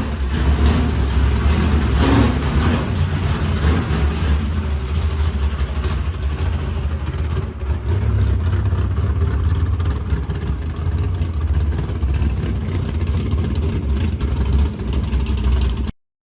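Straight-axle gasser car's engine running with a steady, loud low rumble that swells slightly now and then, cutting off abruptly near the end.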